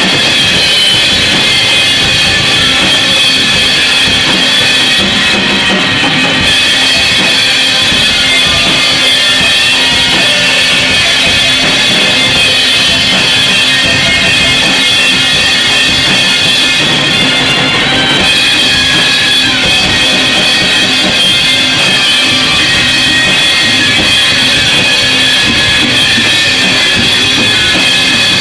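Loud noise music: a dense, unbroken wall of distorted sound with steady high-pitched tones, played over drums.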